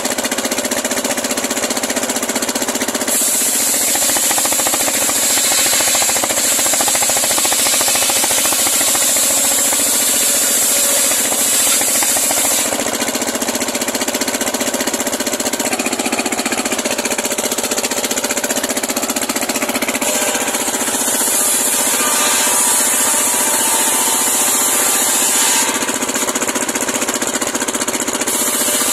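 Homemade circular sawmill running steadily as its blade rips through a large pule log. A bright, high hiss comes and goes in long stretches of several seconds.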